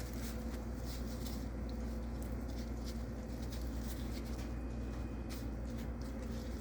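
Gloved hands rolling raw chicken thighs in a dry baking-mix coating and setting them in a pan: soft, irregular taps, pats and rustles over a steady low hum.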